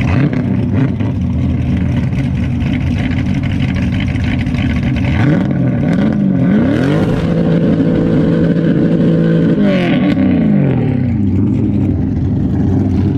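Straight-piped LS V8 idling, then revved: a quick blip about five seconds in, then held at higher revs for about three seconds before dropping back to idle.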